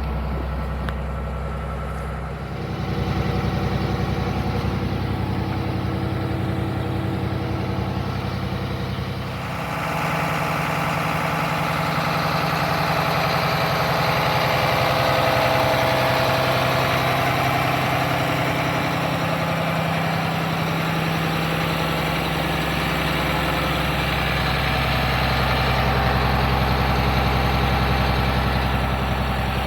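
The 6.7-litre Cummins diesel of a 2009 Blue Bird Vision school bus idles steadily while the air brake system builds pressure. The engine note changes about two and a half seconds in, and again at about nine and a half seconds, after which it sounds fuller, consistent with the high idle being set.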